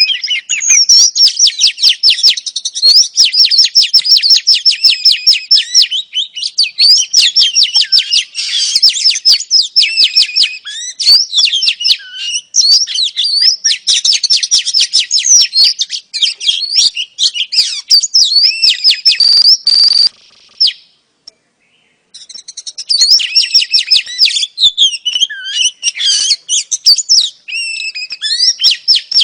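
Female Oriental magpie-robin chirping fast and continuously, a dense stream of sharp chirps and whistled notes. It breaks off for about a second roughly three-quarters of the way through, then carries on.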